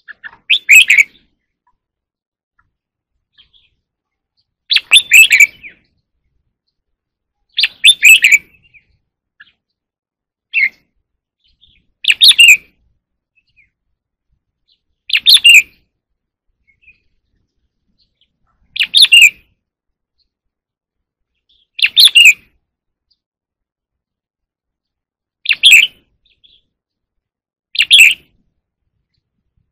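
Red-whiskered bulbul singing: short, loud song phrases of about a second each, repeated roughly every three seconds with quiet gaps between them.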